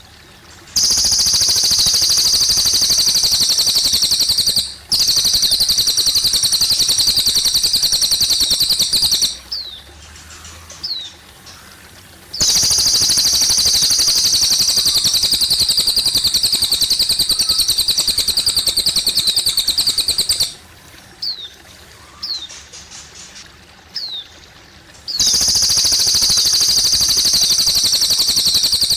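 Cililin bird singing long, fast, high trills, four bouts of several seconds each, with short single downslurred chirps in the pauses between them. Water trickles softly underneath.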